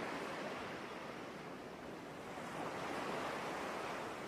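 Soft ocean-surf ambience: a steady rushing wash that swells a little about three seconds in.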